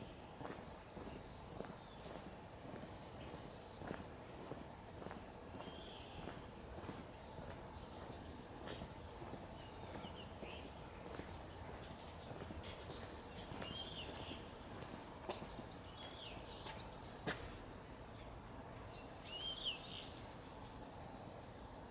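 A walker's footsteps over a faint outdoor background: a steady high-pitched insect drone, with short bird chirps every few seconds. A quick trill runs briefly around the middle, and there is one sharp click a little before the end.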